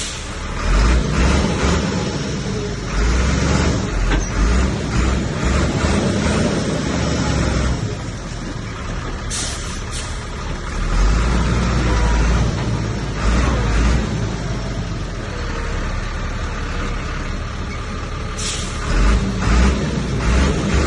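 Heavy diesel earthmoving machinery, a bulldozer working with dump trucks, runs with a strong low rumble that swells and eases under load. Short hissing bursts come near the start, about nine seconds in and about eighteen seconds in, like a dump truck's air brakes releasing.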